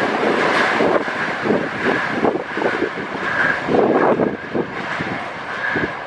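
Passenger train coaches rolling away across a steel truss bridge: an irregular clatter of wheels over the rail joints with a steady high ring beneath, slowly fading toward the end.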